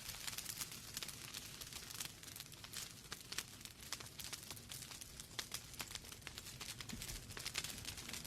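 Wood fire burning in a fireplace: logs crackling with a dense run of sharp pops and snaps over a soft steady hiss.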